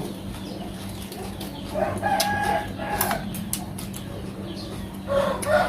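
A rooster crowing: one held call about two seconds in, and another starting near the end.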